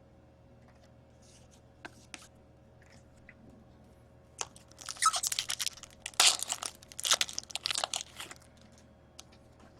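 A foil trading-card pack wrapper being torn open and crinkled, in a run of rustling, crackling tears from about halfway through for some four seconds, after a few light clicks of cards being handled.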